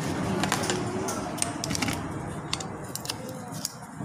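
Small sharp metal clicks and scrapes, irregular and frequent, from pliers working the retaining lock ring off the rotor shaft of a dismantled power steering pump.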